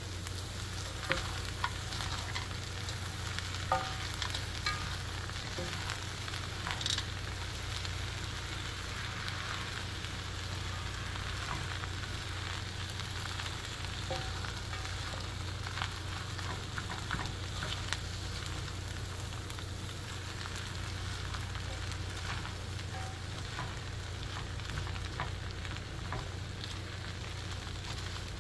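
Fried rice sizzling steadily in a HexClad hybrid stainless nonstick pan as it is stirred and tossed with silicone-tipped tongs, with scattered light clicks of the tongs against the pan.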